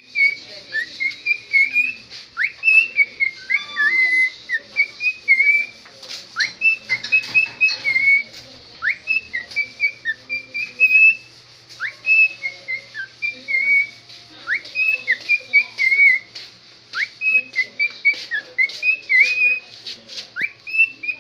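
Cockatiel singing its whistled song: an unbroken string of short chirpy whistles, with quick upward-sliding notes every second or two.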